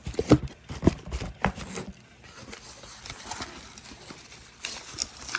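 Handling of a small cardboard product box and its contents: a series of sharp clicks and taps in the first two seconds, then quieter rustling of paper packaging.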